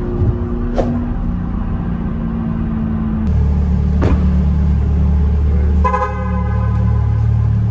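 C8 Corvette's V8 running steadily at highway cruise, heard from inside the cabin. After a cut about three seconds in, a car engine runs low and steady in a parking garage, and a car horn sounds and holds from about six seconds in.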